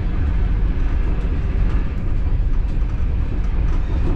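Inside a carriage of the Sharq passenger train: a steady, loud low rumble of the train running on the rails, with a few faint clicks and rattles.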